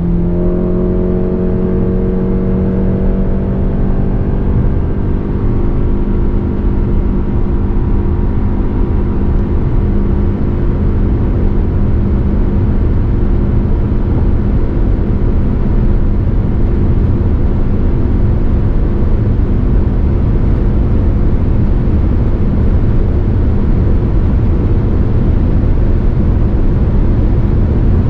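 Lexus RX 350h E-Four hybrid's 2.5-litre four-cylinder petrol engine under full-throttle kickdown, heard from inside the cabin as the SUV accelerates toward 200 km/h. The note rises briefly at the start, then the e-CVT holds the engine at one steady pitch while road and wind noise slowly grow.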